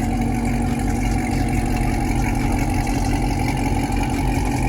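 Car engine idling steadily close by, a constant low rumble with no revving.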